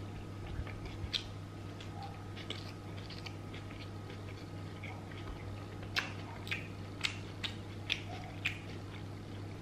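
Close-miked mouth sounds of someone chewing a bite of pizza: wet clicks and smacks, sharper and more frequent in the second half at about two a second. A steady low hum runs underneath.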